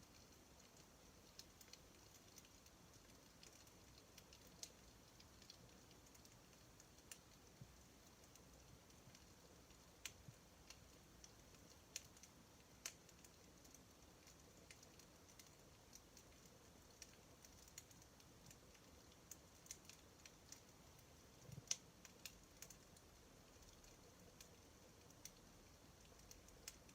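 Wood campfire crackling faintly: sparse sharp snaps and pops, irregular and a second or more apart, over a faint steady hiss, with the loudest pop about two-thirds of the way through.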